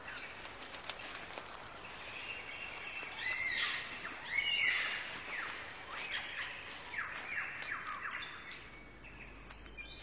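Forest birdsong: a busy mix of whistles and chirps, loudest around the middle, followed by a series of quick downward-sweeping calls.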